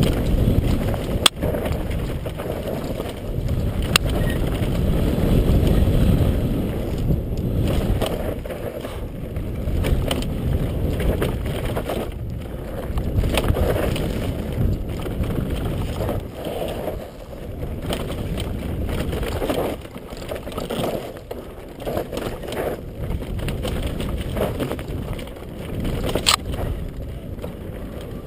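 Wind buffeting the microphone on a fast downhill ride on an electric motocross bicycle. Under it is a deep rumble that surges and fades, with a few sharp knocks as the bike goes over rough ground.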